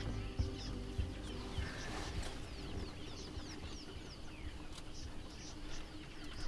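Wild birds calling with many short, high chirps, several of them sliding downward in quick runs. A low rumble fades out over the first two seconds.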